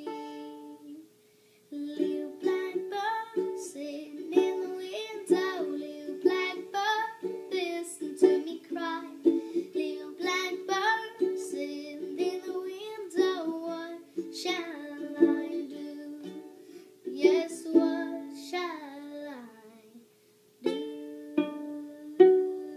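Ukulele playing a slow instrumental passage of a folk ballad, with plucked, ringing notes that stop briefly about a second in and again near the end.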